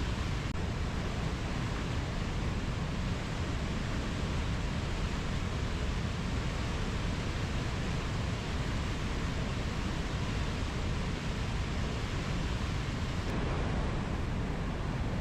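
Steady rushing ambient noise of a rainforest nature recording, even and unbroken, with no distinct animal calls or tones.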